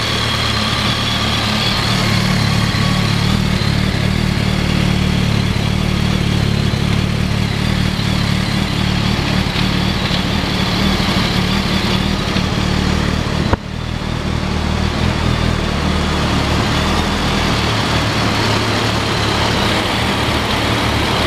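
2007 BMW K1200S motorcycle's inline four-cylinder engine idling steadily, with a brief click and momentary drop in level about two-thirds of the way through.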